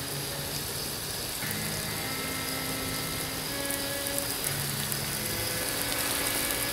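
Garden-hose spray falling like rain, a steady hiss of water pattering down on the lawn and onto a nylon rain suit.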